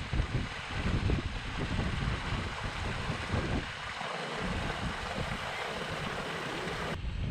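Floodwater rushing, a steady hiss, with wind buffeting the microphone in low gusts. The sound changes abruptly near the end.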